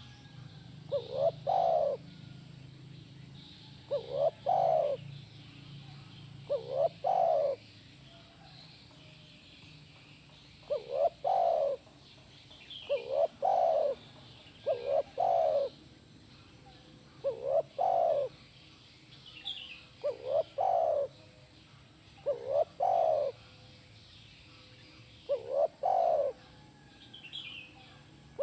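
Spotted dove (tekukur) cooing over and over: each phrase is a short note or two followed by a longer coo, repeated about every two to two and a half seconds.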